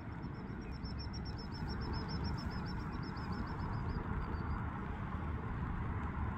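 A small bird's rapid trill of short, high notes, about nine a second, lasting about four seconds and tailing off, over a steady low rumble.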